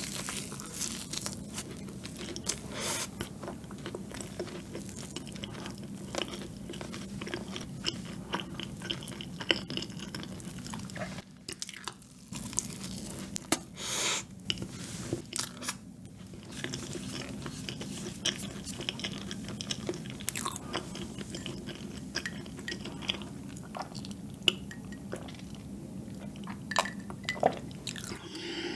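Close-miked chewing and biting of a peanut butter cream donut, a continuous run of small wet clicks and crackles with a louder bite about halfway through.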